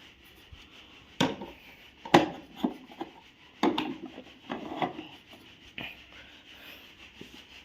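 Irregular sharp taps and knocks with light scraping, as of kitchen utensils being handled.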